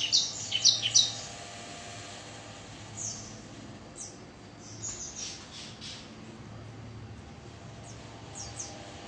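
A ciblek (prinia) calling: a quick run of loud, high, sharp chirps in the first second, then softer chirps scattered through the rest. A faint steady hum lies beneath.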